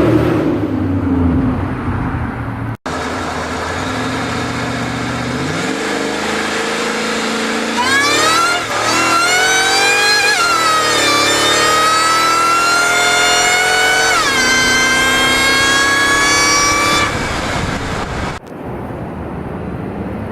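Ford SVT Lightning's supercharged 5.4 L V8 accelerating hard past, the engine note and high supercharger whine rising and dropping twice at the upshifts before climbing again. It starts about 8 seconds in, after a stretch of steadier running that is cut between clips.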